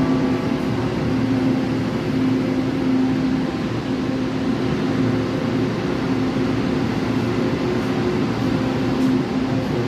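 Steady mechanical drone of a train, with a low hum that holds an even pitch and no sudden events.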